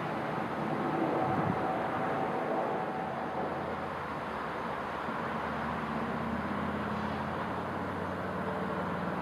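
Electric trains approaching. First a DB double-deck push-pull train, cab car leading, with a steady whine over the running noise that fades out a few seconds in. Then a Stadler KISS double-deck electric multiple unit comes in with a low hum that grows and rises slightly in pitch.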